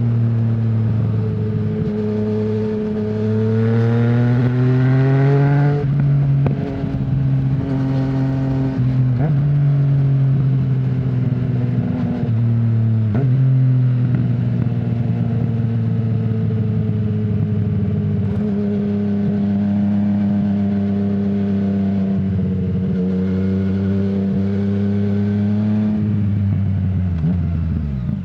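2020 Yamaha MT-09's three-cylinder engine through an Akrapovic full-system exhaust with no dB killer. It rises in pitch under acceleration, dips at several quick upshifts, then holds a steady note at cruise. Near the end it falls away as the throttle closes.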